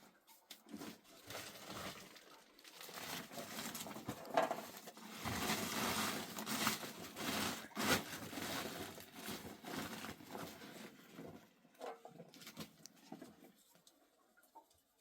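Irregular rustling and crackling with many small clicks, busiest in the middle and dying away about a second and a half before the end.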